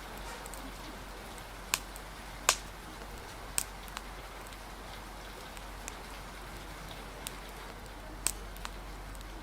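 Steady hiss of rain and wind, with the sharp pops of a crackling wood fire scattered through it, about seven in all, the loudest around two and a half seconds in.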